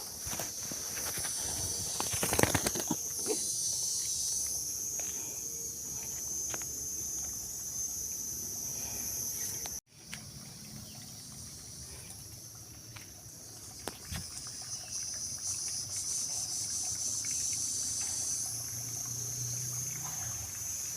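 Steady high-pitched insect chorus, with scattered small clicks and knocks over it. The sound cuts out for an instant about halfway through.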